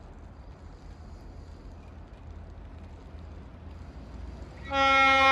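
Low rumble of an approaching Budd RDC rail diesel car. Its air horn then starts with a loud, steady chord about four and a half seconds in.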